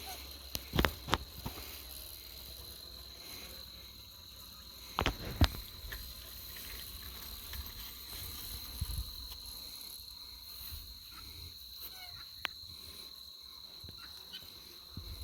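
Steady high-pitched insect buzz, like crickets, with a few sharp clicks and knocks about a second in and about five seconds in.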